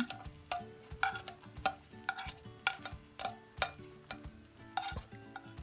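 Irregular light knocks and clicks of a spoon against a cooking pot as chopped onion is added, about two a second, over faint background music.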